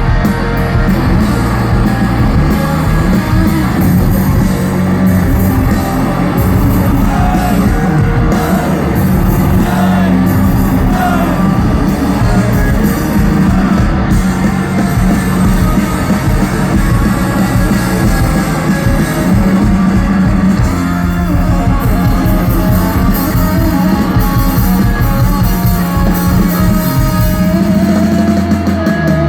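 Rock band playing live and loud: distorted electric guitars over a drum kit, with singing.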